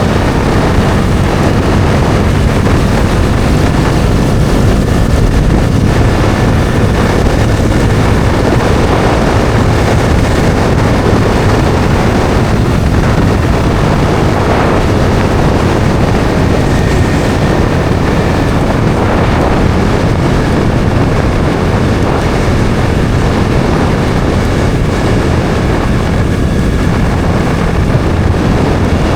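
Bajaj Dominar 400 motorcycle's single-cylinder engine running steadily at road speed while riding, with wind rushing over the microphone.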